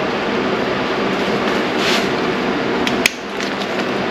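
Steady background noise with a short rasp about two seconds in and one sharp metallic click a little after three seconds, as a screwdriver bit is fitted to an engine cover screw.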